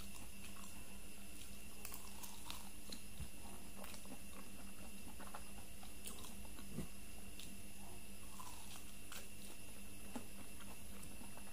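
A person chewing soft, ripe durian flesh: quiet sticky mouth sounds with scattered small smacking clicks, over a steady faint hum.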